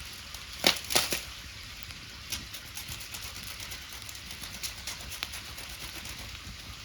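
Wood bonfire crackling, with two sharp pops about a second in and lighter snaps scattered after.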